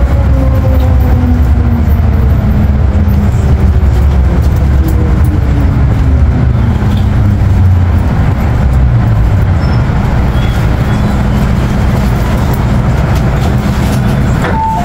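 MTR M-Train electric multiple unit running on the line with a heavy rumble, its traction motor whine falling steadily in pitch as the train slows. A two-note chime starts right at the end.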